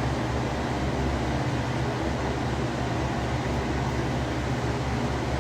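Steady whir of a motor-driven air blower, an even hiss over a low hum that does not change.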